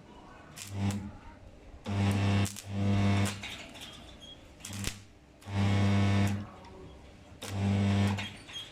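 Stick (arc) welder striking and holding the arc in short bursts, about six in eight seconds, each a buzzing hum with crackle and sizzle.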